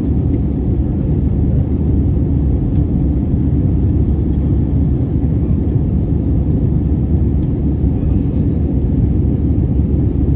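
Airbus A320 heard from inside the passenger cabin in flight after takeoff: a steady low rumble of engines and airflow.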